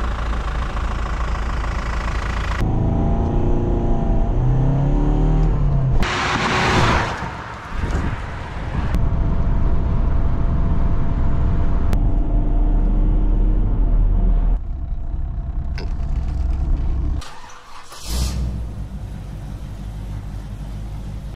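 Opel Omega B 2.2 DTi four-cylinder engine in a string of short clips cut abruptly one after another: running, rising and falling in revs several times a few seconds in, and driving noise with short bursts of noise near the middle and near the end.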